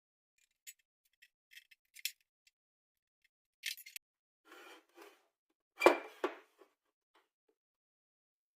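Irregular series of short metallic clicks and scrapes from hand tools working on the oven's igniter parts, the loudest a sharp click with a scrape about six seconds in.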